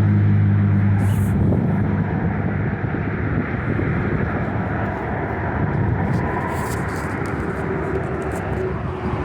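Road traffic: a low engine hum about a second and a half at the start, then a steady rumble of passing vehicles.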